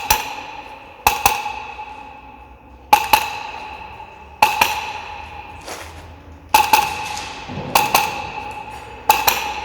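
Polarstar Kythera HPA engine in an HK416 airsoft replica firing single shots through a hollow suppressor with its insert and front cap removed. There are seven sharp cracks about one to two seconds apart, each followed by a ringing tone that fades away.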